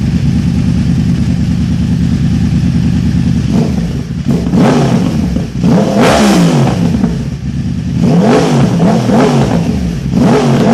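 2013 Yamaha R1's crossplane inline-four idling through a Yoshimura TRC-D exhaust, then revved in a series of quick throttle blips from about three and a half seconds in, each rising and falling in pitch.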